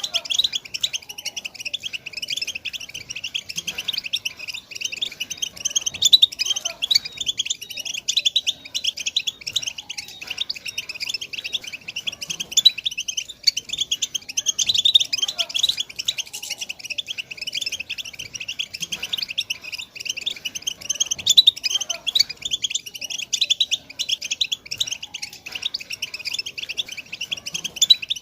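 European goldfinch chattering and twittering without pause, a rapid stream of high, buzzy chirps. It is the kind of goldfinch 'batbata' chatter played to silent goldfinches to prompt them to sing.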